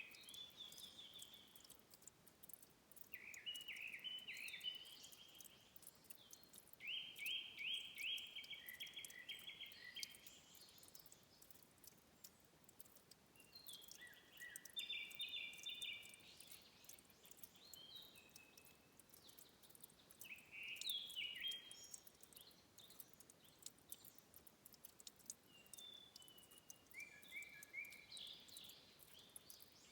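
A songbird singing short phrases of rapid repeated notes, one every few seconds, over a faint steady hiss with tiny clicks.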